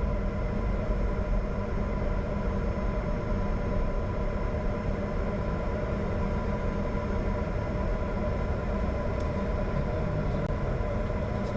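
Steady cockpit noise of a Bombardier Challenger 605 business jet: a continuous rumble and hiss from its engines and airflow, with several steady whining tones on top. A few faint clicks come near the end.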